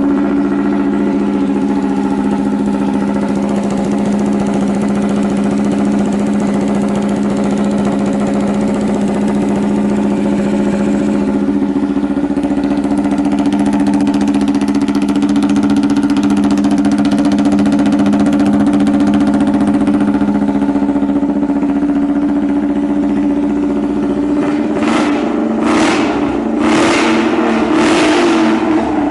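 Honda CB250RS-Z single-cylinder four-stroke engine idling steadily through a hand-bent full exhaust system, then revved in about five quick throttle blips near the end. It runs cleanly, with no abnormal noises.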